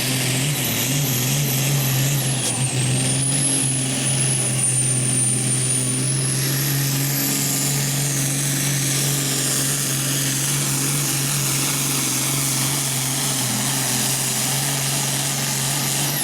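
Hot farm pulling tractor's diesel engine running hard at steady high revs under load, with a high whine that dips briefly a few seconds in and then climbs back. The engine sound drops away at the very end.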